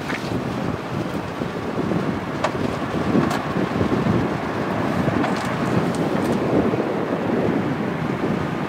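A train passing with a steady rumble, a few faint clicks, and wind buffeting the microphone.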